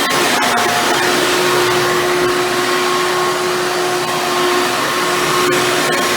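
Hoover Elite Bagless Twin Chamber upright vacuum cleaner running steadily, its motor giving a continuous loud rush with a steady whine, and a few faint clicks near the start and near the end.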